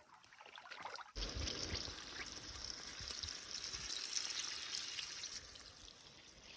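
Water trickling and splashing, starting abruptly about a second in and running on as a busy, crackling wash.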